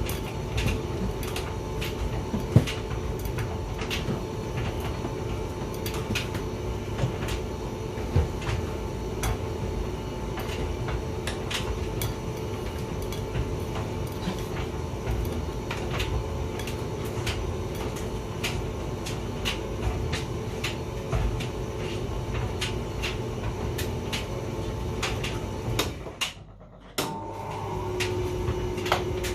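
Hotpoint vented tumble dryer running: a steady motor and drum hum with irregular knocks and clicks as the load tumbles against the drum. About 26 seconds in the sound drops away briefly, then the running resumes with a changed hum.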